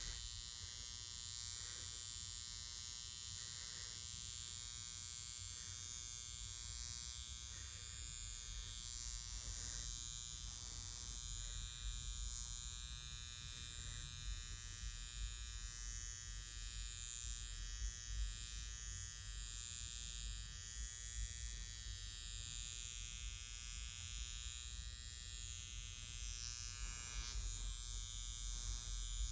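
High-frequency facial machine buzzing steadily while its electrode tool is run over the skin of the face.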